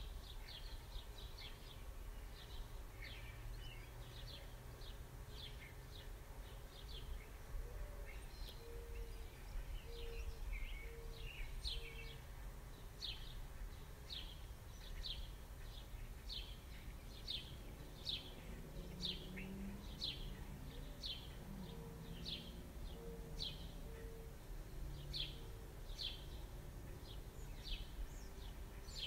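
A bird chirping over and over: short high notes that drop in pitch, about one or two a second, over a low background hum.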